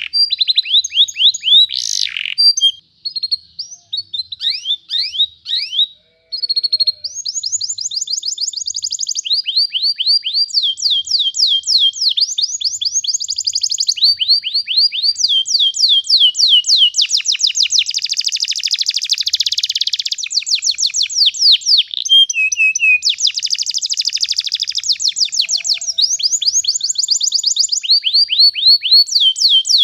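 Domestic canary singing a long rolling song: fast trills of rapidly repeated whistled notes, switching to a new trill every second or two, with short pauses a few seconds in.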